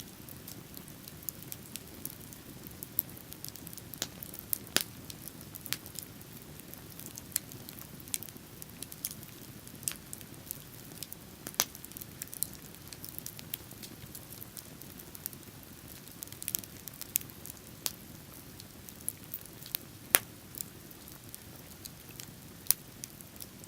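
Wood bonfire crackling: sharp, irregular pops and snaps over a low, steady rush.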